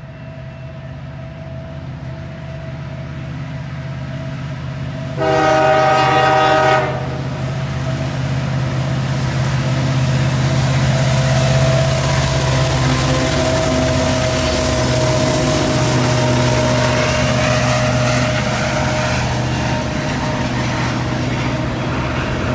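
Diesel freight locomotives approach with their engines droning low. About five seconds in, one short horn blast sounds, under two seconds long. The train then passes close, and a loud, steady rumble of the locomotives and of wheels on rail builds and holds.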